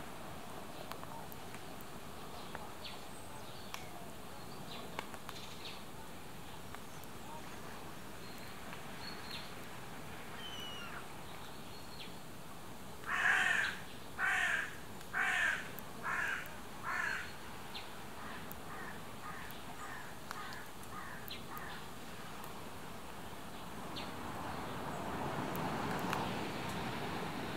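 Lakeside birds calling: a harsh call repeated five times about a second apart, then a fainter quick run of shorter calls, over light chirping from the water birds. A swell of rustling noise rises near the end.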